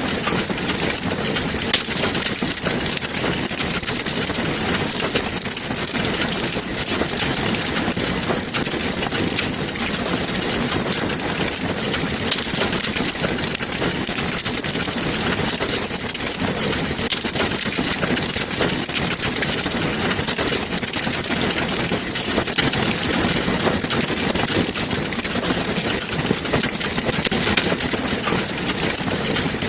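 Wood fire burning in a fireplace, crackling steadily with many small sharp pops over a constant hiss.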